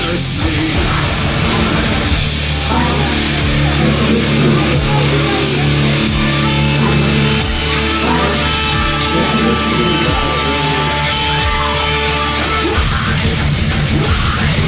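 Live heavy metal band playing loud, with distorted electric guitar. From about two seconds in, the band holds long sustained chords with few hits; near the end the steady hits come back in.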